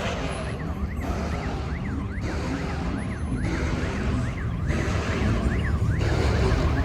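Siren yelping in quick, repeated up-and-down sweeps, over a heavy low rumble of idling cars.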